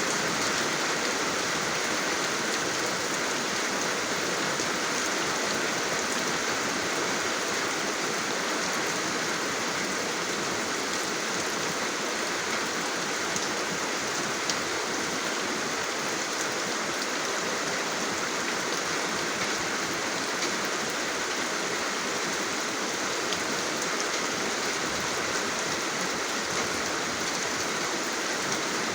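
Steady rainfall with the occasional louder drop ticking through it.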